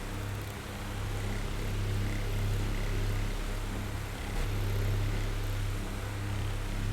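Oscillating electric fan running: a steady low motor hum with the whir of moving air, its level dipping and swelling a couple of times.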